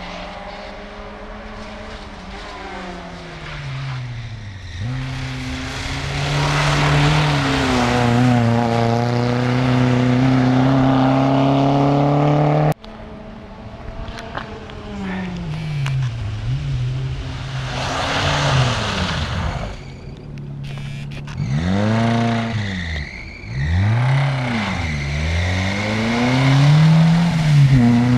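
Fiat Cinquecento rally car's engine revving hard as it is driven on a snowy track, the engine note climbing and held high, then cut off abruptly about halfway through. In the second half the revs swing up and down quickly several times with on-and-off throttle before rising high again near the end.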